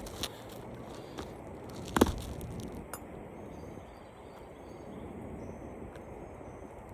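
A few sharp clicks and small cracks over a faint steady background, with one loud snap about two seconds in, as a brittle old asphalt shingle is pried up to break its seal. The shingle is ripping rather than lifting cleanly, a sign of an old roof that is too brittle to repair.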